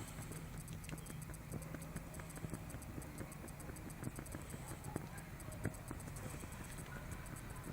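Campfire crackling: irregular small pops and snaps over a steady low rumble.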